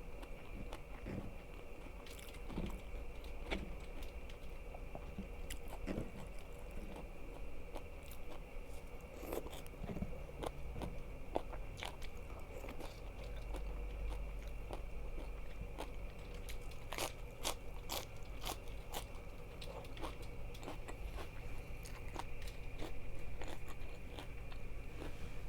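Close-miked eating: crunchy food bitten and chewed with irregular crisp crunches and wet clicks, over a faint steady hum.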